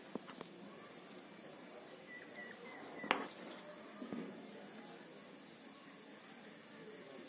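Faint, high bird chirps over quiet background noise, with a short run of soft repeated peeps a little after two seconds and one sharp click about three seconds in.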